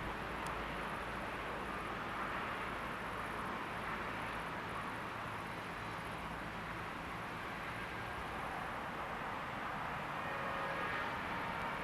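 Train rolling past on the rails with a steady running noise, and short high-pitched squeals starting near the end.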